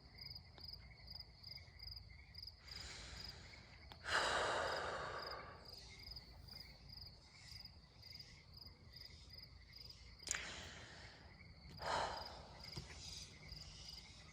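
A woman's sighs and shaky breaths as she tries to compose herself after crying: a long exhale about four seconds in is the loudest, with shorter breaths around three, ten and twelve seconds. A faint, steady high pulsing tone runs underneath.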